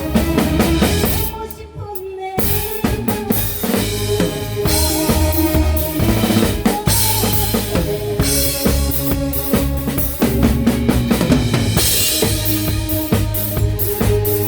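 A rock band plays live: a drum kit with kick, snare and cymbals drives over electric bass and guitar. About two seconds in the drums drop out for a moment, then the full band hits back in.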